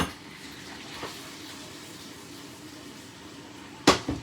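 Chicken sizzling steadily in a frying pan, with two sharp clinks of a utensil against the pan near the end.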